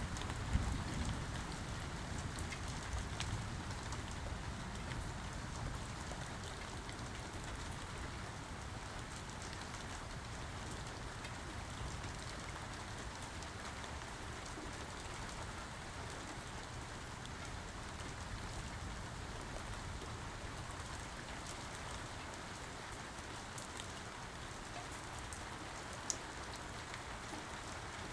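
Steady rain falling, an even hiss with faint scattered drip ticks. A low rumble of thunder dies away in the first couple of seconds.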